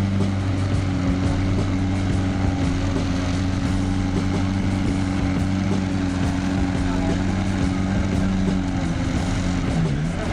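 A car engine running steadily at a constant speed with a low, even drone; its pitch dips briefly near the end.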